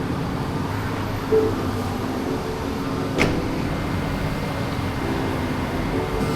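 Steady noise inside a Tesla car's cabin, with a short knock about one and a half seconds in and a sharp click about three seconds in.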